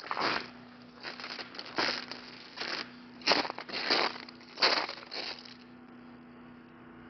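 Footsteps crunching through ice-crusted ground after an ice storm, about eight steps at a walking pace, stopping near the end.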